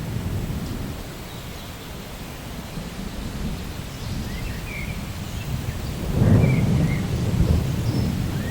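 Rain falling with a low rumble of thunder that swells louder about six seconds in.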